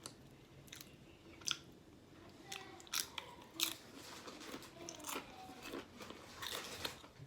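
Close-miked chewing and biting of food, with a scatter of short, sharp, crunchy clicks and wet mouth sounds, the loudest about one and a half, three and three and a half seconds in.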